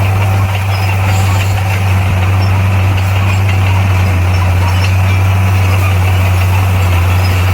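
Bulldozer's diesel engine running steadily, a constant deep drone with no change in pitch.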